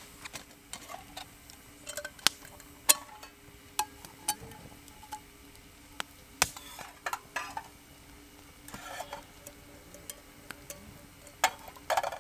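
Pots, dishes and utensils clinking and knocking during cooking: scattered sharp clinks, with a couple of short scraping sounds.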